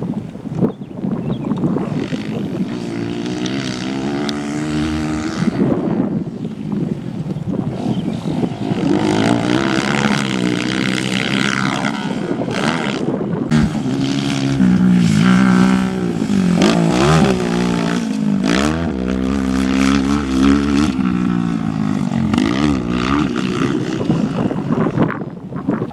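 Motorcycle engines on a grasstrack circuit revving hard and dropping back again and again, the pitch rising and falling with throttle and gear changes.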